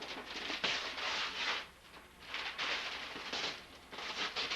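Gift wrapping paper being torn and crumpled off a present, in several rustling, crackling rips.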